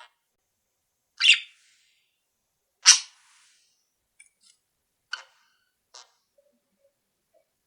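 Pet cage birds giving short, sharp calls with pauses between: two loud calls about a second in and near three seconds, then a few fainter chirps.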